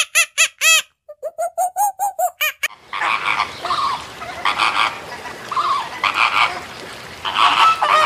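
A fast series of short, pitched monkey calls, about five a second, breaking off about two and a half seconds in. Then a flock of flamingos honking, goose-like, over a busy background of bird noise.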